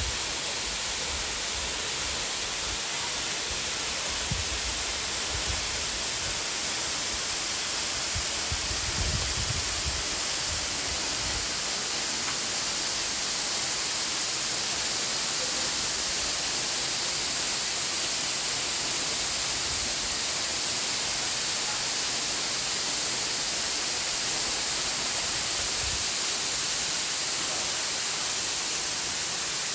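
Waterfall cascading, a steady loud rushing hiss, with a few brief low bumps in the first third.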